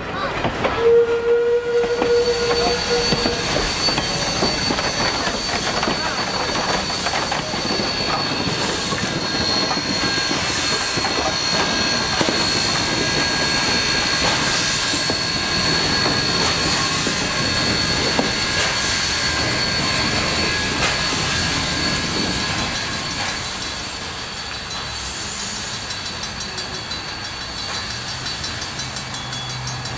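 A steam-hauled passenger train rolling past close by: steel wheels squeal against the rails in a steady high-pitched whine over the running rumble, with a regular beat of wheels over rail joints. It gets a little quieter late on.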